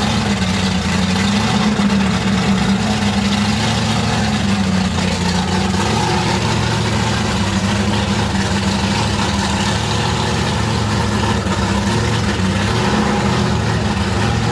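Drag car's engine idling steadily, sitting at the starting line before a run.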